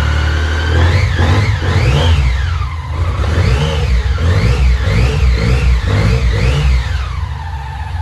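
BMW K75's three-cylinder engine revved repeatedly from idle, the revs rising and falling about eight times before settling back to a steady idle near the end.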